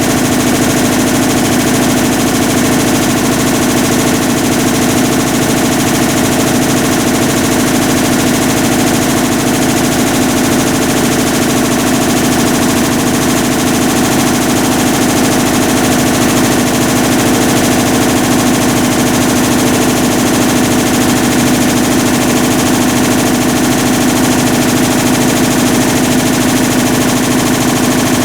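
Hitachi BeatWash BW-D8KV washing machine running with a loud, steady grinding drone, the abnormal noise of a failed clutch.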